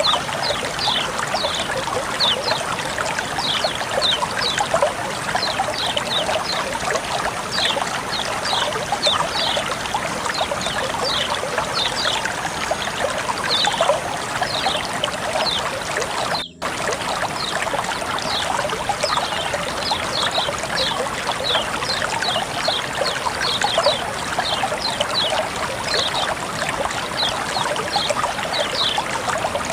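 Water flowing and trickling steadily, with a continual patter of short, high, falling chirps above it; the sound drops out for an instant a little past halfway.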